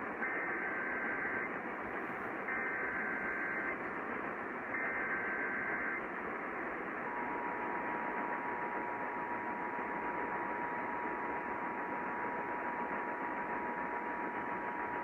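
Emergency Alert System alert tones over radio hiss: the SAME digital header squawks three times, about a second each, then the steady two-tone attention signal sounds from about seven seconds in. This sequence marks the start of a new alert message.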